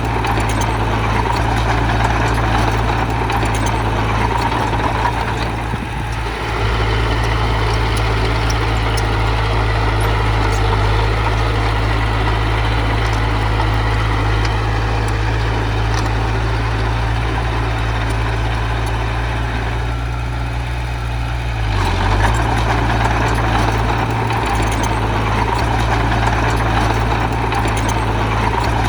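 Diesel engine of heavy earthmoving machinery running steadily, with a short dip in level about six seconds in and a change in its note a little past twenty seconds in.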